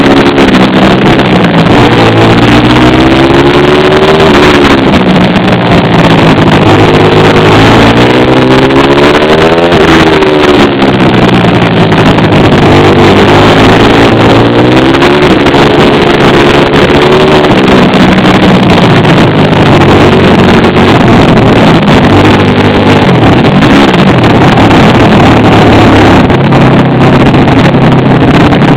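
Pit bike's small single-cylinder engine revving hard and easing off again and again, its pitch climbing over a few seconds and then falling, with wind buffeting the microphone.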